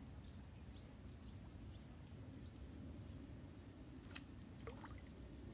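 Quiet outdoor ambience: a low, steady background rumble, with several short, high bird chirps in the first two seconds and a faint click about four seconds in.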